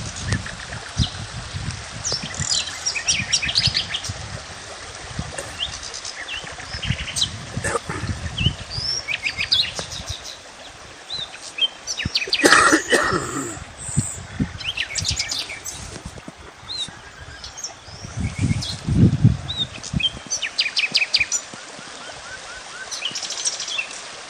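Several small birds chirping and trilling outdoors in overlapping short calls, with one louder call about halfway through. Low rumbles come and go underneath, near the start and again later.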